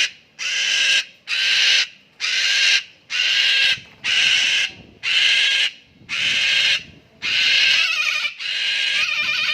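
Cockatoo screeching over and over: loud, harsh calls about one a second, the last couple longer and wavering.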